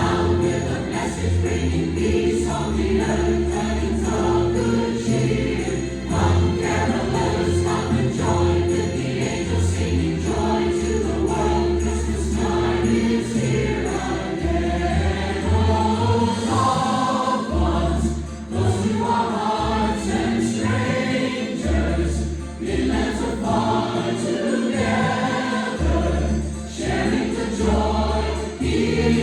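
Choir singing a Christmas song over instrumental accompaniment, with a steady, even percussion beat that is strongest in the first half.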